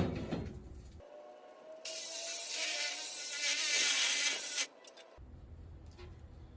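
A sharp metallic bang dies away at the start, then a battery power tool cuts into the harvester's metal for about three seconds, from about two seconds in, before stopping abruptly.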